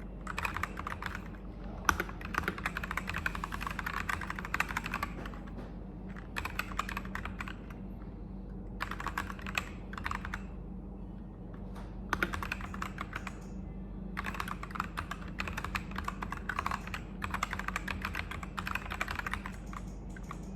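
Ajazz AK992 retro-style mechanical keyboard with clicky switches, typed on in quick runs of keystrokes lasting a few seconds each, broken by short pauses.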